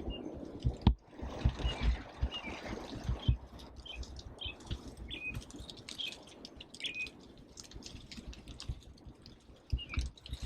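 Small songbirds chirping, short scattered calls through the whole stretch. Under them run irregular low thumps and rumble, strongest in the first few seconds.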